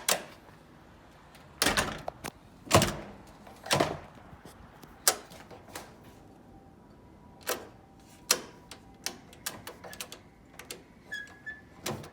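Irregular metal clicks and knocks from a front-door latch mechanism being handled and worked by hand, with a few louder clunks in the first few seconds.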